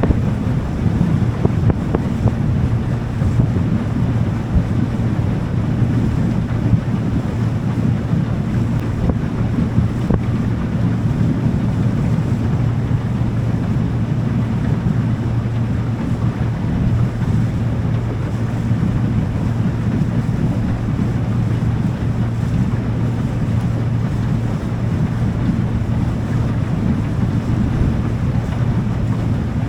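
Motorboat under way, its engine running at a steady pitch, with water rushing past and wind buffeting the microphone.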